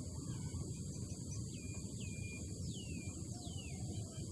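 Small birds giving short, high whistles that fall in pitch, several in a row, over a steady low rumble of outdoor background noise.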